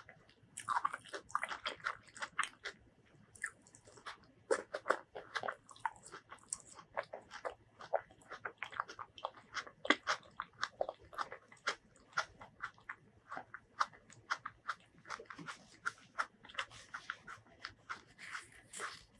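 Close-miked chewing of fresh tomato: a steady run of quick wet mouth clicks and lip smacks, several a second.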